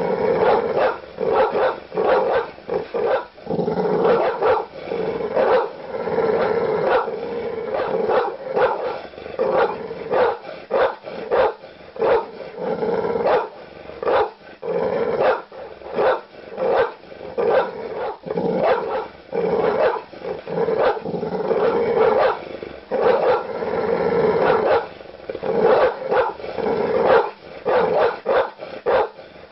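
Large dogs barking aggressively, deep barks coming thick and fast and overlapping, with snarling growls between them.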